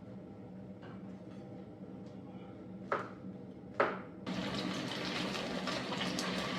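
Water running, with two sharp clicks about three and four seconds in, after which the running water gets louder and fuller.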